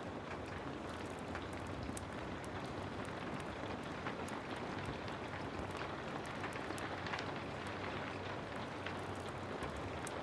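Heavy rain falling steadily, with many small sharp ticks scattered through it.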